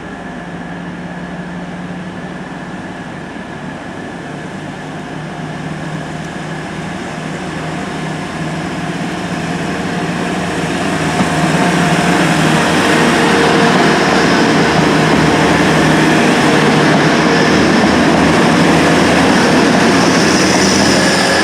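Diesel train running on the line through the station, growing steadily louder for about the first ten seconds and then staying loud, with a steady engine drone under the rumble of the train.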